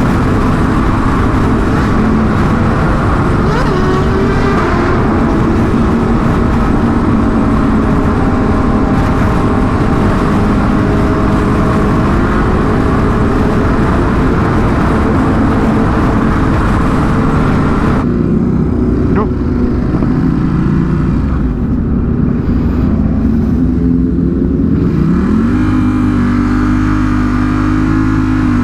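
Sportbike engine running under way, heard with heavy wind rush at speed. About two thirds in, the wind hiss suddenly drops away, and near the end the engine revs up and holds a steady pitch.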